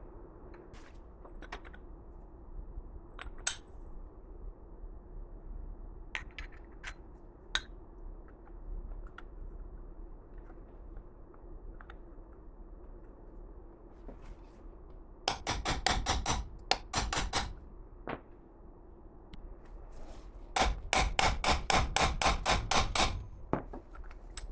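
Hammer striking metal: scattered single knocks, then two runs of quick blows at several a second, each lasting about two seconds, the first about two thirds of the way through and the second near the end. A faint steady hum runs underneath.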